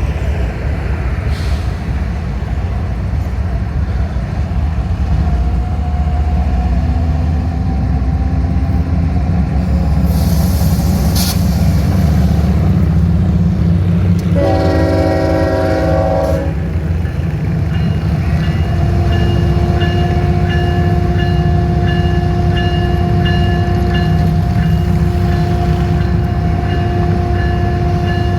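Diesel locomotives of a loaded coal train rumbling steadily as the train rolls in, with the horn sounded once for about two seconds midway. From about two-thirds in, a steady tone with a regular ringing pulse sits over the rumble.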